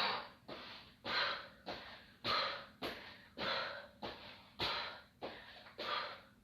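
Hard, rhythmic breathing of a person doing ski jumps, one forceful exhale with each landing, about twice a second, each one starting with a sharp knock of the landing.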